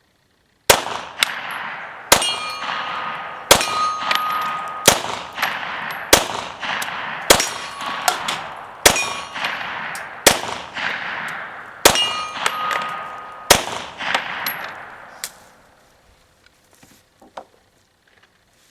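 FMK 9C1 9mm pistol firing about ten shots of 147-grain full metal jacket ammunition at a steady pace, roughly one every second and a half. Each loud report is followed by echo and a short metallic ring. The shooting stops about two-thirds of the way through, leaving a few faint clicks.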